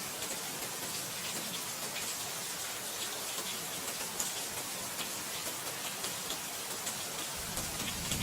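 Steady rain, an even hiss with scattered faint ticks of single drops. A low rumble comes in near the end.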